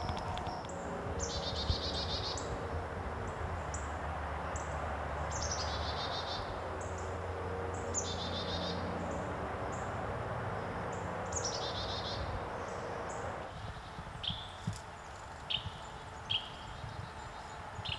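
Songbirds calling in woodland: repeated high trilled calls, several at a time, and short sharp chirps, over a steady background hiss that drops away about thirteen seconds in.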